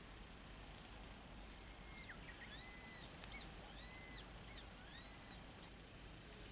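Faint outdoor ambience with a bird singing a short run of repeated arched notes, rising then falling, from about two to five seconds in.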